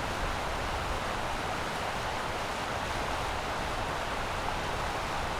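Steady, even rushing noise that starts suddenly at a cut.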